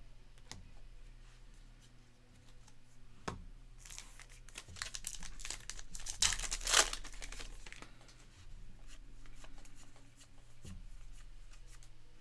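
A trading-card pack wrapper being torn open and crinkled, with a stretch of crackling about four seconds in, loudest a few seconds later. A few light clicks from handling cards come before it.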